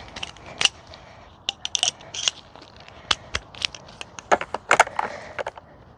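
Plastic clicks and snaps as the bottom plate of a Bissell Powerforce Helix upright vacuum is pulled off the housing, its clips popping loose. Sharp irregular cracks come thickest about two seconds in and again near five seconds.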